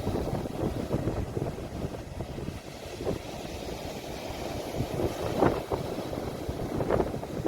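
Sea waves washing against the shore, recorded on a phone, as a steady low rumble with a couple of louder swells in the second half, wind buffeting the microphone.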